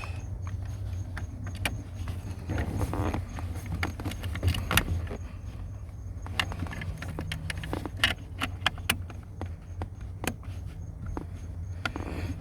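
Scattered clicks, taps and rustles of hands working a new plastic seat HVAC filter into its housing under a car seat, over a low steady hum.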